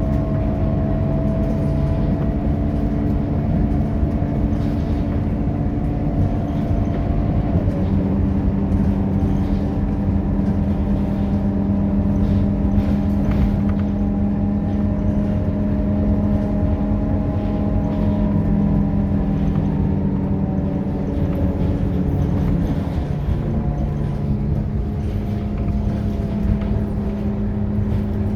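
Scania K230UB Euro 4 city bus engine running steadily under way, its note shifting in pitch twice.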